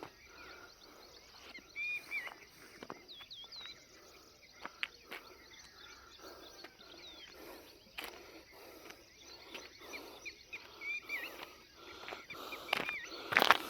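Small birds calling outdoors in short, curving chirps, with scattered sharp clicks and a louder cluster of knocks near the end.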